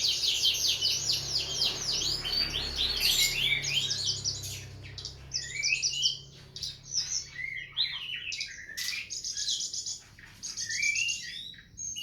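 Songbird song of the kind used as masteran, to train caged birds: a fast high trill at the start, then a run of varied chirps and quick whistled glides, with another trill near the end.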